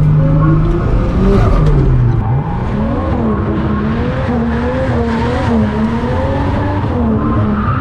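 Ford AU Falcon's turbocharged inline-six held high in first gear during a drift, its revs rising and falling over and over with the throttle, with tyres scrubbing and squealing underneath. The engine note holds steady at first, then drops about two seconds in before the wavering starts.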